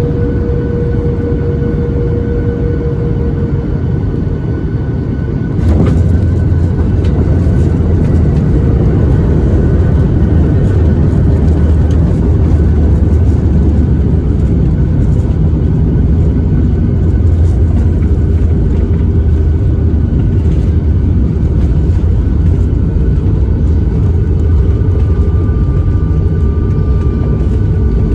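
Boeing 737 MAX 8 cabin noise heard from an over-wing window seat on landing: jet engine and airflow noise, then a sudden thump about five and a half seconds in. A heavier, steady rumble follows, which fits touchdown and the roll-out on the runway.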